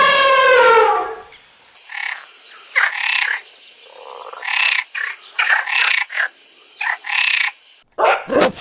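Recorded animal calls: the end of a long, pitched call that fades out about a second in, then a different recording of about a dozen short, separate calls over a steady hiss.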